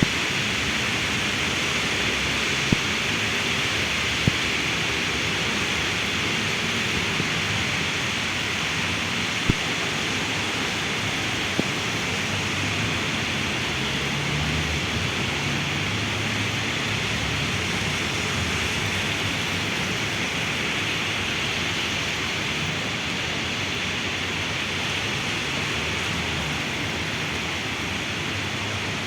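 Heavy rain falling steadily, a dense even hiss, with a few sharp ticks of drips in the first dozen seconds.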